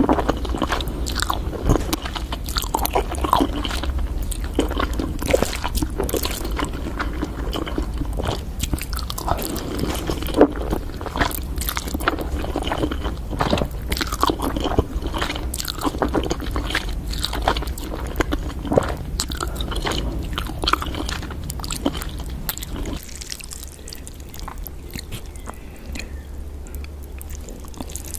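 Close-up chewing and crunching of food: a run of irregular crisp crunches and mouth sounds, growing sparser and quieter for the last few seconds.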